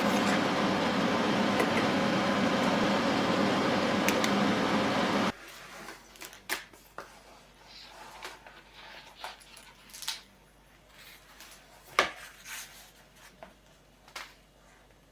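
A steady mechanical whir, like a running household appliance or fan, cuts off abruptly about five seconds in. Scattered light clicks and taps of small objects being handled follow, with one sharper click near the end.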